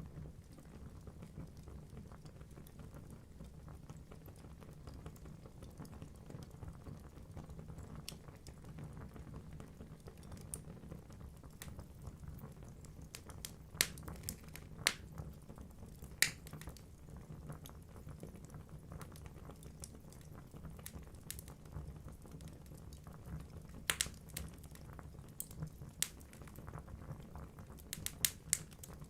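Wood fire burning in a fireplace: a steady low rush of flame with scattered sharp crackles and pops from the burning logs, the loudest pops bunched about halfway through and again near the end.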